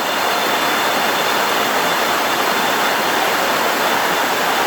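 Waterfall water rushing and splashing in a steady, loud wash of noise.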